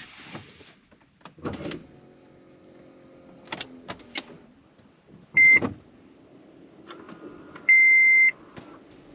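Electronic beeps: a short beep about five seconds in, then a longer, louder one near the end, among scattered clicks and a brief ringing tone earlier on.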